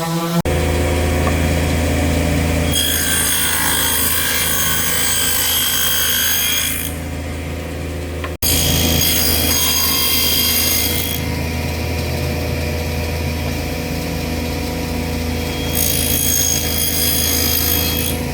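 Electric power tool running steadily on wood, with the hiss of the tool biting into the wood rising and falling in three separate passes.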